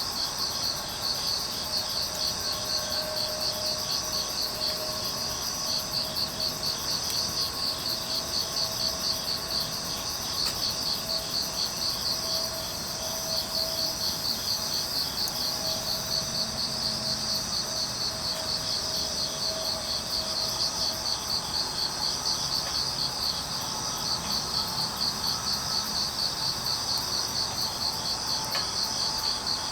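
Crickets and other grass insects chirping steadily in fast, overlapping pulsed trills.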